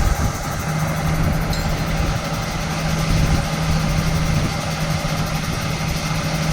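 Heavy machinery engine idling steadily, with a constant low hum.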